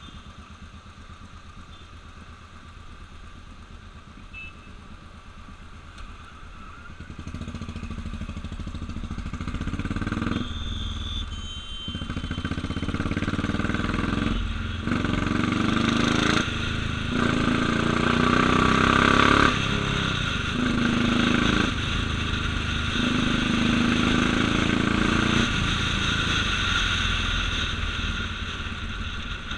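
Motorcycle engine running low and steady, then pulling away about seven seconds in and accelerating through the gears. Each gear climbs in pitch and is followed by a short dip at the change, several times over.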